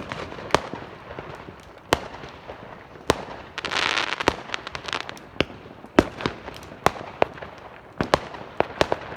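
Fireworks and firecrackers going off: a string of sharp bangs at irregular intervals, one or two a second, with a longer crackling burst about four seconds in.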